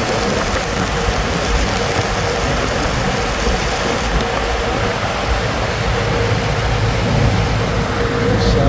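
Steady, loud machinery noise with a constant hum running throughout.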